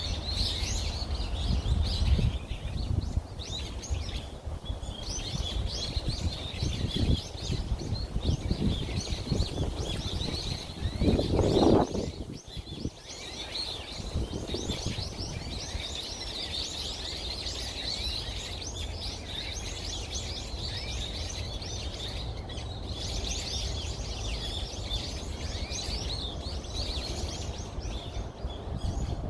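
Many small birds chirping continuously in short high notes, over a low rumble that is loudest about twelve seconds in.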